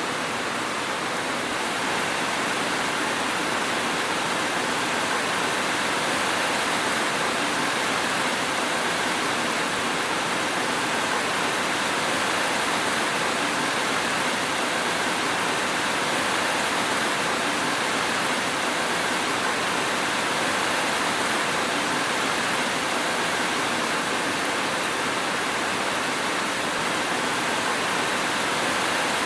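Steady rain falling: a dense, even hiss with no separate drops standing out and no thunder.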